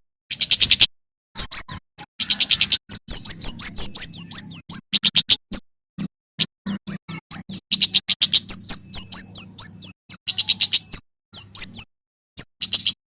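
Male prenjak keres (kemade jawa) singing in dense bursts of rapid, sharp, high-pitched chirps and trills, with brief pauses about a second in and again near the middle and the end. The song is loud and emphatic, in the fast 'full shot' style wanted for training other songbirds.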